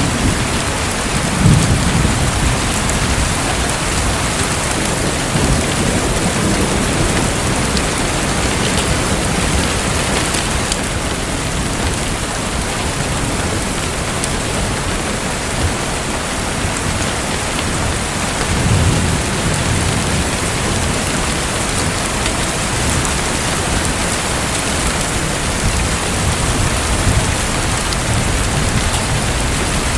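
Steady, dense water noise, like falling or splashing water, with two short low rumbles: one about a second in and one about two-thirds of the way through.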